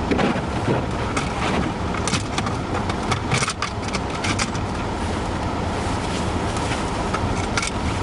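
Steady low rumble of a car with its engine running in blizzard winds, with a scatter of short, sharp crackles, thickest a couple of seconds in.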